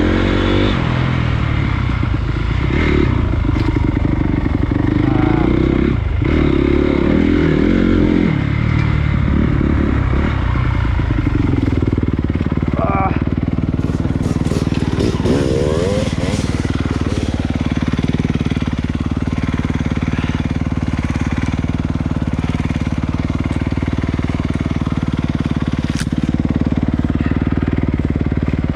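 Dirt bike engine, a Honda CRF250's single-cylinder four-stroke, riding a trail. The revs rise and fall for about the first twelve seconds, then the engine runs more steadily, with a sharp click late on.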